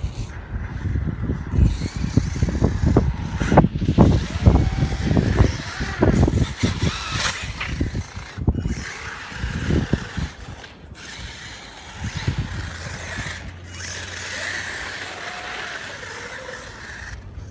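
Brushless electric motor and gear drivetrain of an RC monster truck whining and rising and falling in pitch as it drives, with wind buffeting the microphone, heaviest in the first half.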